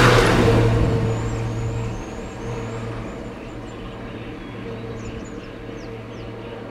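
Truck engine running steadily. It starts suddenly and loud with a hiss, then eases down to a steady level over the first two seconds. Small birds chirp in the background.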